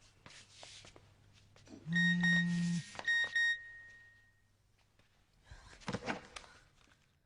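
An electronic beep: a low buzzing tone with a higher tone over it for just under a second, then a couple of short beeps, the last ringing out and fading.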